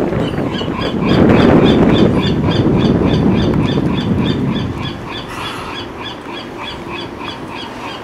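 A bird chirping over and over, short high chirps about three a second. A rush of wind or water noise rises over it during the first half.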